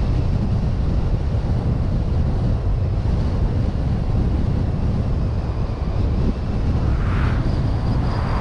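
Wind buffeting the microphone over the low, steady rumble of a car driving on a mountain road. About seven seconds in there is a brief swell of hiss, followed by a faint, steady high whine.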